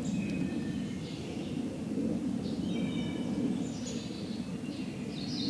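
Small songbirds chirping and singing in short, thin, high notes, over a steady low rumble.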